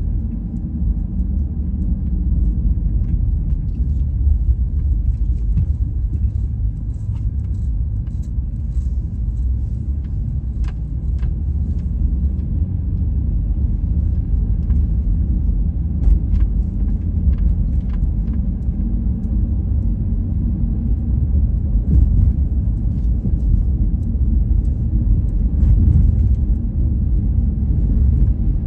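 Steady low rumble of a car driving in strong gusty wind, heard from inside the cabin: wind buffeting and road noise. Scattered light clicks, from a small hanging angel charm tapping against the phone.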